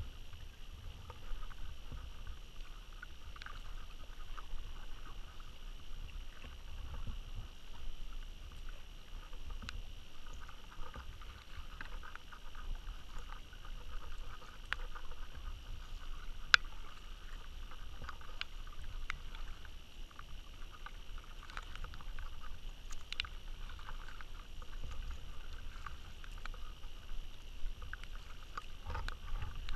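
Kayak on a river: water splashing and trickling around the hull and paddle, with a low rumble and scattered small knocks. One sharp click comes about halfway through.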